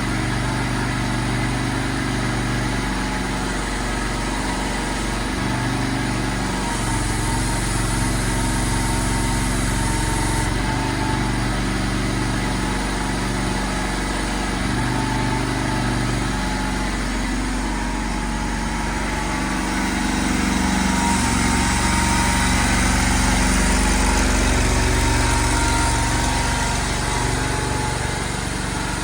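CFG Industries MY50R mini excavator's engine running while the machine is worked. Its pitch and load shift up and down in steps, and it grows louder for several seconds past the middle.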